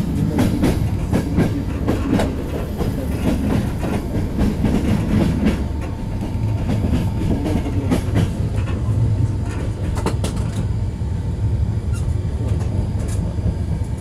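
Passenger train running on the rails, heard from inside the carriage: a steady low rumble with the wheels clicking over rail joints.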